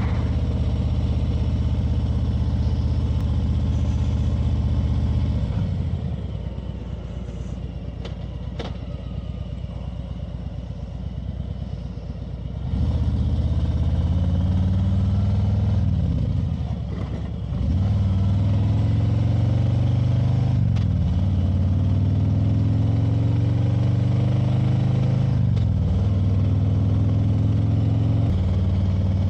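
Motorcycle engine on the move. It runs steadily at first, then is off the throttle for several seconds while slowing for a turn. It then pulls away through the gears, the pitch rising and dropping back at each of three upshifts before settling into a steady cruise.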